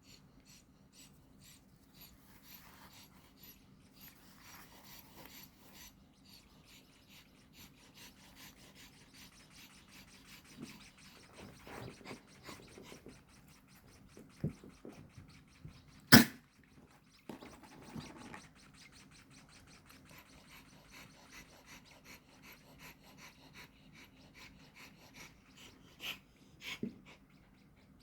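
Nestling birds cheeping in quick, even series of short high peeps, as they beg for food. Handling knocks come in between, and one sharp click is the loudest sound, about halfway through.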